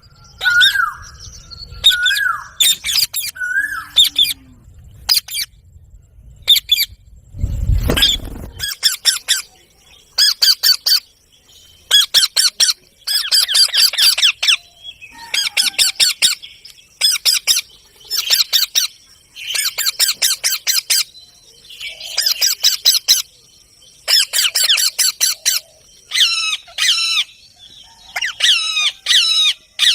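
A pet parrot chattering in repeated bursts of rapid, harsh chirps and squawks, a burst every second or two, with a few short rising whistled notes in the first few seconds. A low thump about eight seconds in.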